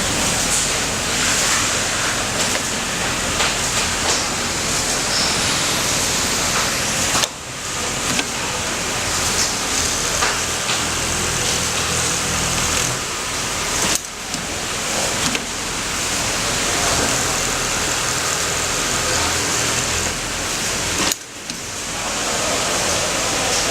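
Automatic pattern sewing machine running on shirt collars, a steady loud mechanical noise of motor and stitching over factory din. It drops away briefly three times, about every seven seconds.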